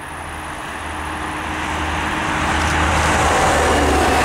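SNCF BB 67400 diesel locomotive hauling a train of Corail passenger coaches as it approaches at speed. Its engine drone grows steadily louder, joined near the end by the rush of wheels on the rails as it reaches the microphone.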